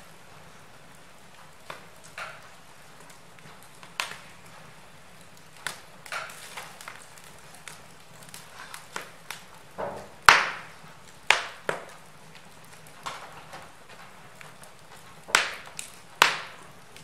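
Wood fire crackling in a fireplace: irregular snaps and pops over a faint hiss, with a few sharper, louder pops in the second half.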